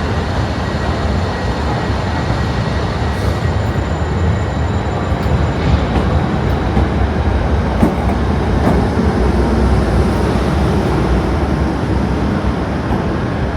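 Class 455 electric multiple unit running at the platform: a steady, loud low rumble of the train.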